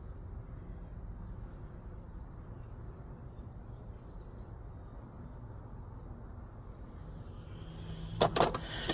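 Crickets chirping steadily in the background, with a low hum under them. Near the end comes a short clatter of sharp metal clicks as old hand tools are picked up and handled.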